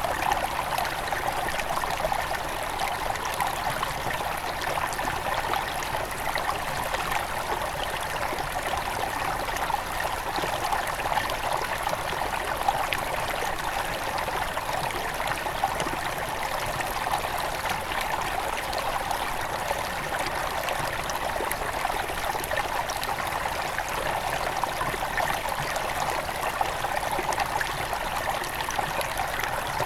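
Headwater stream of a forest river flowing, a steady, even rush of running water with fine trickling.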